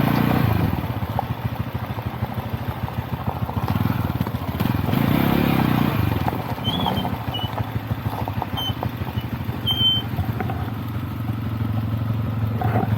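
Lifan Xpect motorcycle's single-cylinder engine running under way, swelling louder with throttle near the start and again about five seconds in.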